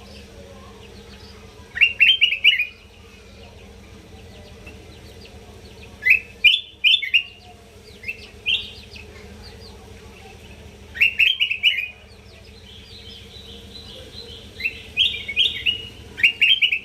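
A kutilang emas bulbul singing in repeated short phrases of quick, bright chirping notes, several seconds apart, with a longer run of phrases near the end. A faint steady hum sits under the song.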